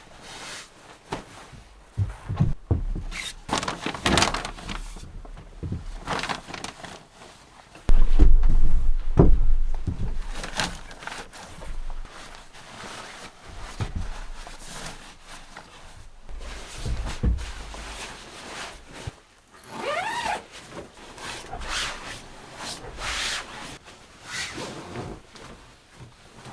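Scattered knocks, thunks and steps of someone moving about and handling things inside a wooden room. A loud low rumble starts suddenly about eight seconds in and lasts about two seconds, and a short wavering creak comes about twenty seconds in.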